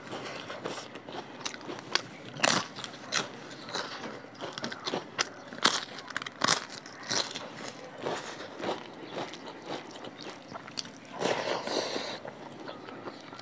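Crunching and chewing of papad, a crisp fried lentil wafer: many sharp, irregular crunches as it is bitten and chewed. A longer rustling stretch comes near the end.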